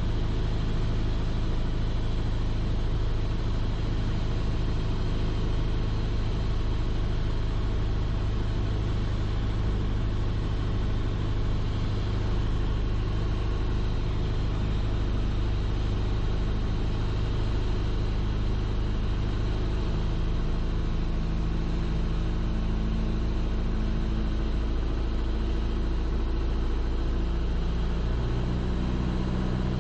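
Piper Archer's four-cylinder piston engine and propeller droning steadily in cruise on the base leg, heard through the pilot's headset. Its pitch shifts slightly about two-thirds of the way through and again near the end, as the power is adjusted.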